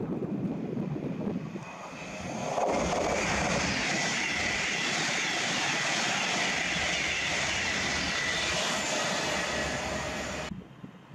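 Avanti West Coast Class 390 Pendolino electric train passing through at speed on the near line: a loud rush of air and wheel noise with a high steady whine. It builds about two and a half seconds in and stops abruptly near the end.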